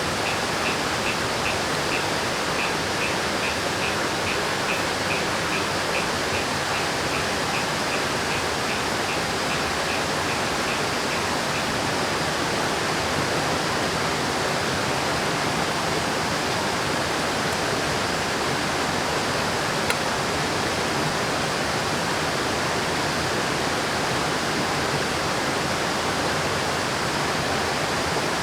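River water rushing in a loud, steady roar. Over this, a high chirp repeats about three times a second and stops about twelve seconds in.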